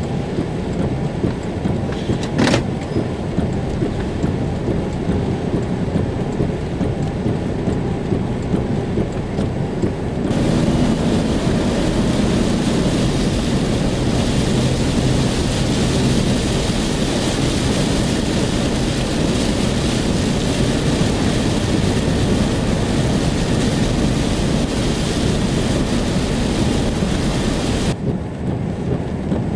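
Car driving through a severe thunderstorm, heard from inside: a steady road and engine rumble with a sharp click a couple of seconds in. About ten seconds in, heavy rain starts hitting the car, loud and steady, and it cuts off suddenly near the end.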